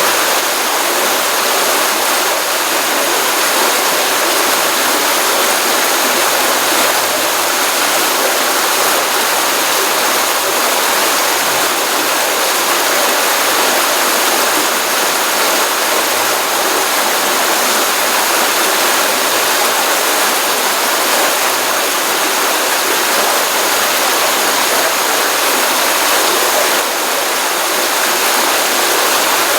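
Stream water running steadily from a pond: a continuous, even rushing with no breaks or changes.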